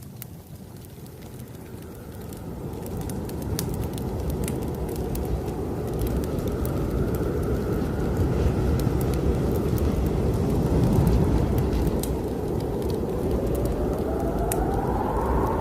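Snowstorm wind gusting, swelling from low to strong over the first several seconds, with a whistling howl that rises and falls near the end. A wood fire crackles underneath with scattered small pops.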